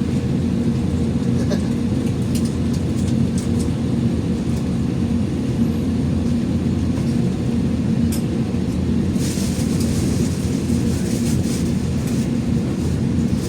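Airbus A321 cabin noise on the ground before takeoff: a steady low rumble with a hum. A brighter hiss joins about nine seconds in.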